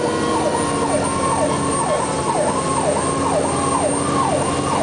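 Fire engine's siren sounding in a fast yelp, its pitch sweeping up and snapping back down about three times a second, with the truck's engine running underneath.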